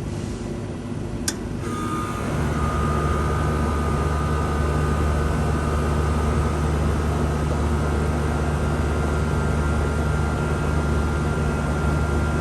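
1983 Lennox HS18 central air conditioner starting up: a single sharp click as it switches on, then its Tecumseh compressor and condenser fan come on with a strong steady low hum and a whine that rises slightly in pitch as the unit settles into running.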